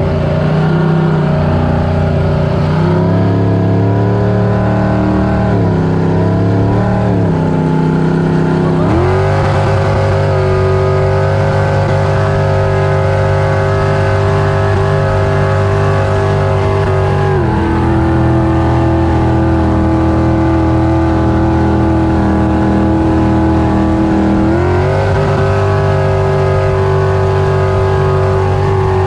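Supercharged V8 engine of a 19-ft Tahiti boat running loudly at held engine speeds. Its pitch wavers early, steps up about nine seconds in, drops about halfway through, and rises again a few seconds before the end.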